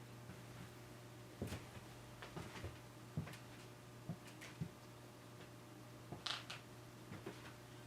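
Scattered light clicks and knocks of ceiling fan parts being handled during assembly, over a steady low hum.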